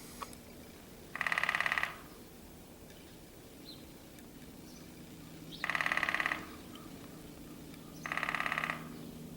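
A fast, even rattle sounding three times, each burst well under a second long; the source is unidentified, suspected to be a woodpecker.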